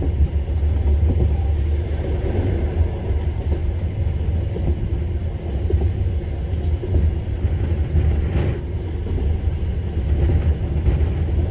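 Passenger train running along the track, a steady deep rumble of the carriages rolling, with a brief louder swell of noise about eight and a half seconds in.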